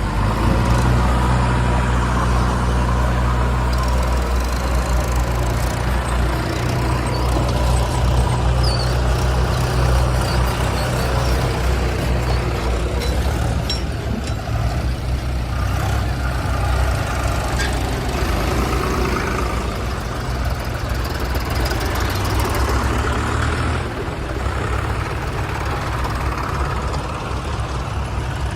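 Heavy machine's diesel engine running steadily at a fairly constant speed, with a strong low hum and a mechanical clatter above it.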